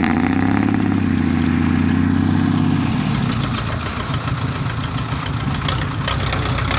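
Heavy diesel truck engine running hard, its speed dropping to a lower, steadier note about three seconds in.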